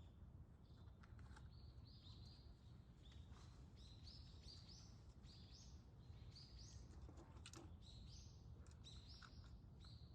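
Faint birdsong: small birds giving short, high chirps again and again, several a second, over a steady low background rumble.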